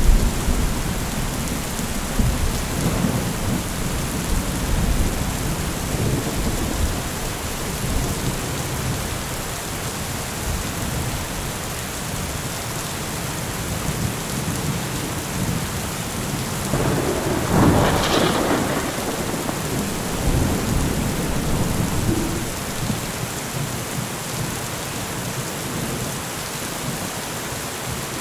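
Heavy rain falling steadily in a thunderstorm, with low thunder rumbling through the first third and one louder swell of thunder about two thirds of the way through.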